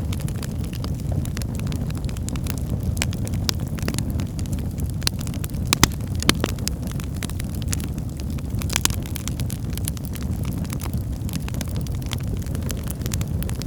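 Wood fire burning in a fireplace: a steady low rush from the flames with frequent crackles and sharp pops of the burning logs, the loudest pair of pops about six seconds in.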